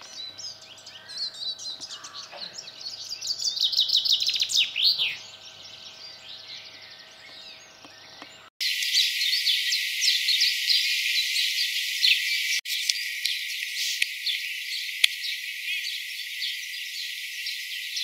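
Songbirds singing: a run of quick chirps builds to loud sweeping notes about four to five seconds in. About halfway through, the sound cuts abruptly to a thin, dense chorus of high chirping with all the low sound stripped away.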